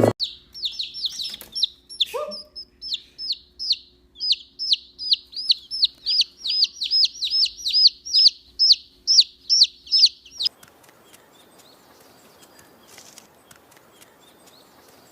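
Rapid series of high chirping calls, each sweeping downward, about three a second, with one lower call about two seconds in. The calls stop about ten seconds in, leaving a faint hiss.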